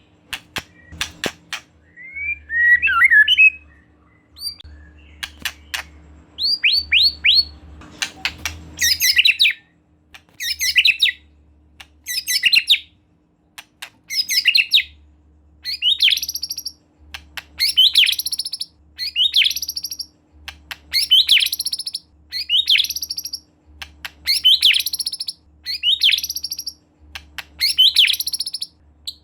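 White-rumped shama (murai batu) singing: a run of short phrases that rise and fall in pitch, repeated about every one and a half to two seconds, with sharp clicking calls in the first few seconds.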